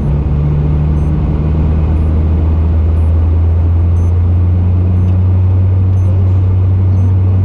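Suzuki Swift Sport 1.4 Boosterjet turbocharged four-cylinder engine running at a steady, unchanging pitch, heard from inside the rally car's cabin. A faint high tick repeats about once a second.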